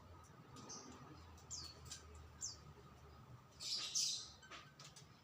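Small songbird giving short, high, downward-sweeping chirps, a few in a row, with a louder harsh call about four seconds in and faint clicks between.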